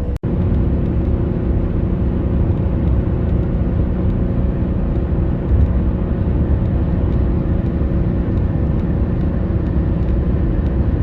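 Steady engine drone and road and wind rumble of a vehicle cruising at constant speed, the engine's pitch holding level throughout. A brief dropout just after the start.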